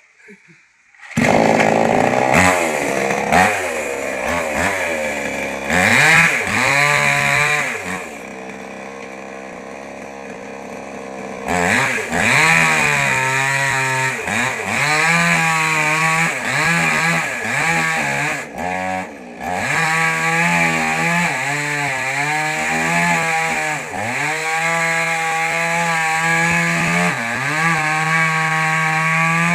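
Small petrol mini chainsaw starting up about a second in, then revving. It drops back to a lower, quieter idle for a few seconds before revving hard again, its pitch dipping again and again as the chain bites into wood.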